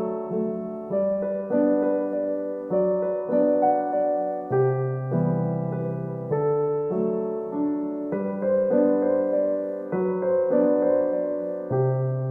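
Background music: a gentle solo piano piece, slow notes and chords played evenly.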